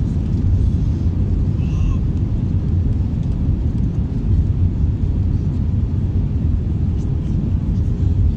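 Airbus A321 airliner noise: a steady low rumble with a faint hum.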